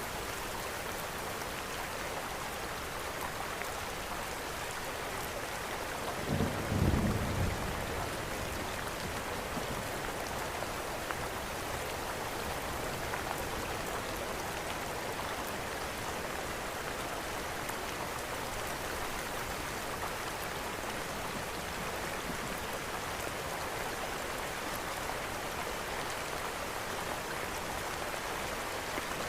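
Steady rain falling, with a short low rumble of thunder about six to seven seconds in, and faint crackles from a wood fire in a fireplace.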